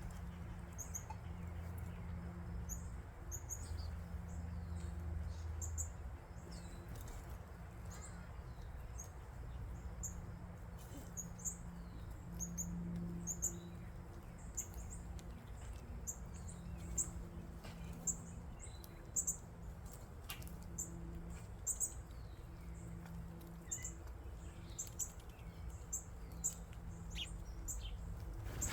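Small birds chirping: many short, high-pitched chirps repeated throughout, over a steady low background hum.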